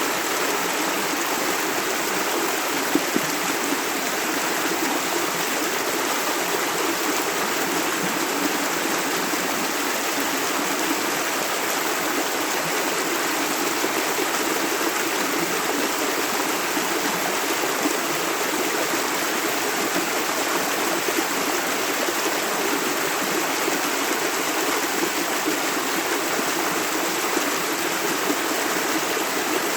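Shallow river running over stones, a steady rushing and babbling.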